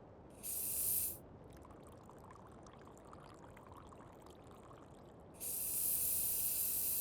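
Espresso machine steam wand hissing in two bursts, a short one near the start and a longer one from about five seconds in, with faint crackling between them. Steady rain in the background.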